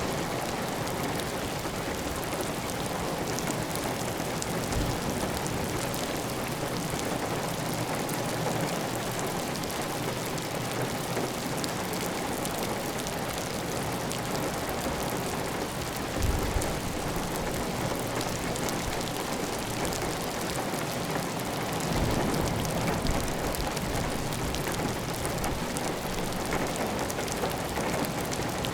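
Heavy, steady rain falling on a clay tile roof, with water running off the roof edge. A couple of brief low thumps stand out, about midway and again a few seconds later.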